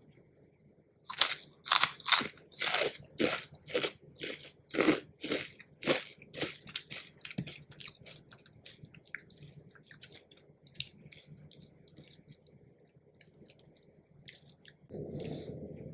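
Crisp food being bitten and chewed close to the microphone, with sharp crunches about two a second. The crunches are loudest over the first few seconds and grow softer as the food is chewed down, with a short muffled rustle near the end.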